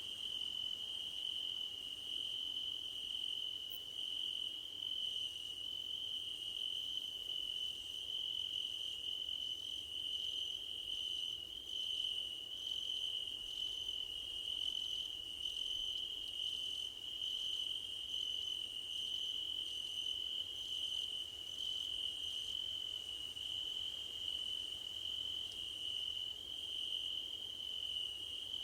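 Crickets singing in a field of grass: one continuous steady trill, with a fainter, higher insect call pulsing about once a second above it.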